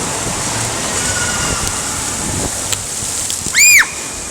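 Steady rush of water and splashing at an indoor waterpark. A short, loud, high squeal rises and falls once near the end.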